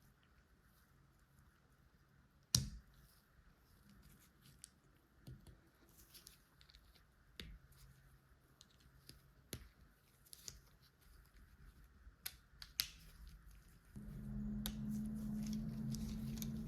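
LEGO plastic pieces being handled and clicked together, a scattering of light clicks with one sharper snap about two and a half seconds in. Near the end a steady low hum starts and becomes the loudest sound.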